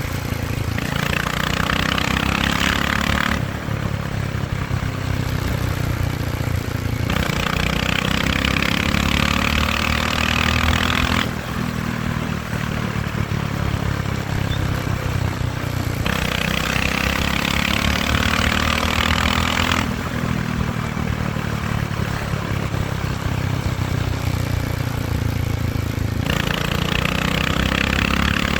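Motorcycle engine running under way, its pitch climbing slowly over several seconds at a time. Every few seconds it alternates with stretches of strong rushing hiss, wind and road noise on the microphone.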